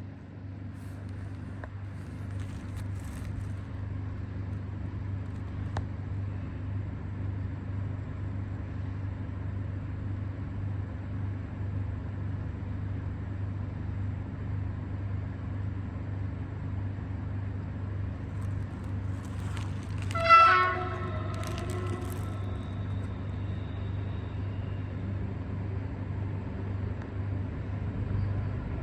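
Arriving passenger train with a steady low rumble, sounding one short, loud horn blast about two-thirds of the way through.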